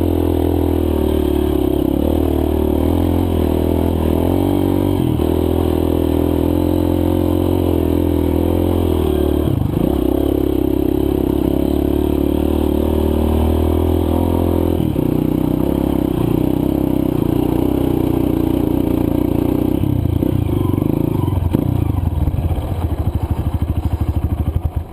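Honda CRF230F dirt bike's single-cylinder four-stroke engine running under steady throttle on a loose trail, with shifts in engine pitch about ten and fifteen seconds in. It winds down and falls away near the end as the bike slows to a stop.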